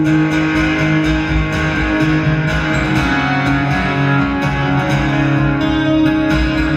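Live rock band playing the guitar-led instrumental intro of a ballad, with sustained guitar chords over a steady low beat.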